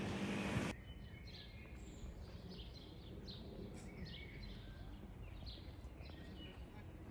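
Small birds chirping, with short high calls several times a second over a faint low town hum. Under a second in, a louder rushing noise cuts off suddenly.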